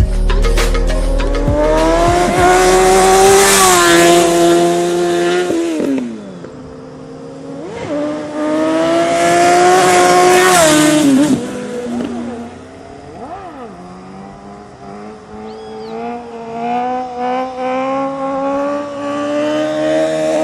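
Sport motorcycle engines accelerating hard. The pitch climbs and holds high, then drops sharply as each bike goes by, twice. In the last part another engine's pitch builds steadily.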